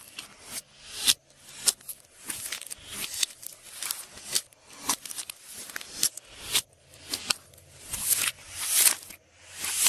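Glossy slime being kneaded and stretched by hand, giving a run of sticky, wet crackles and sharp clicking pops, about one or two squishes a second.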